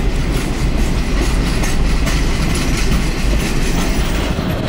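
A freight train of empty sugarcane cars rolling past, wheels clicking over the rail joints above a steady, loud low rumble.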